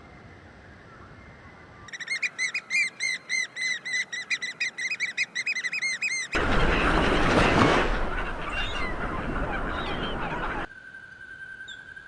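A bird calling in a fast run of repeated, arched chirping notes, about six a second, for roughly four seconds. This gives way to a louder, rushing noise with faint bird calls in it, which drops away near the end.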